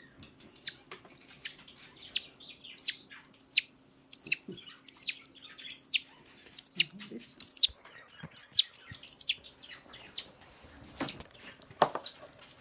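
Baby budgie (budgerigar chick) calling over and over, short high chirps at about two a second.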